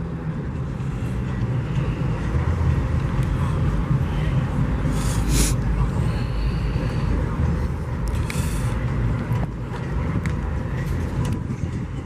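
Low, steady rumble of a car engine idling, with two short hissing sounds about five and eight seconds in.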